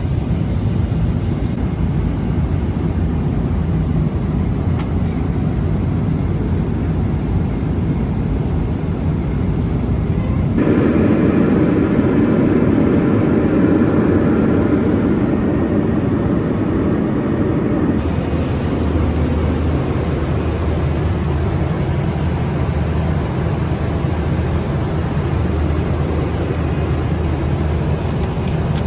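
Steady jet engine and airflow noise inside a Boeing 777-300ER cabin. The noise changes abruptly about ten seconds in, becoming heavier in the low range, and changes again about seven seconds later.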